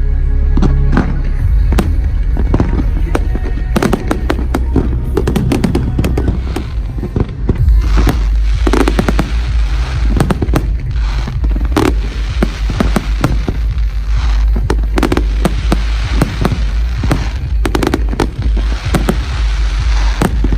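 Large firework display: many overlapping bangs and rapid crackling bursts in quick succession, over a constant low rumble.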